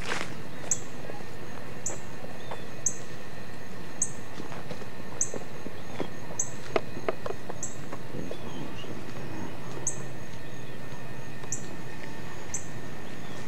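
A bird giving short, high, repeated chirps, about one a second at uneven spacing, over a steady outdoor hiss, with a few sharp clicks about halfway through.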